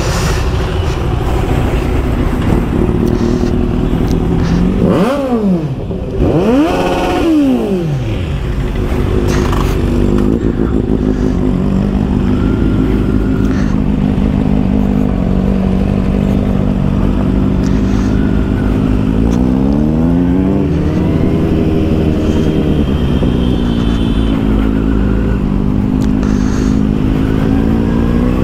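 Motorcycle engine running while riding, over heavy wind rumble. About five seconds in, the revs climb and drop sharply twice, then settle into a steady cruise with a few gentle rises and falls in pitch.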